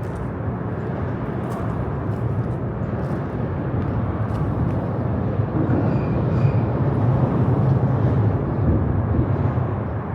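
Steady rumble of road traffic on a highway bridge, swelling somewhat about six seconds in.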